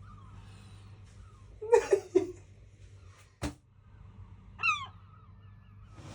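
A seagull giving a few short, sharp calls about two seconds in and another single call near the end, with one sharp click between them.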